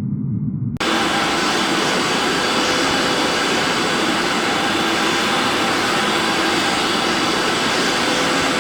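Jet airliner engines heard as a loud, steady rush with faint whining tones. It begins abruptly just under a second in, replacing a low muffled rumble.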